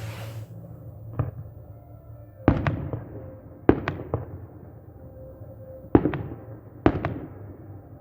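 Fireworks salute: sharp bangs of aerial shells bursting, about eight in all, mostly in quick pairs, each trailing off in an echo.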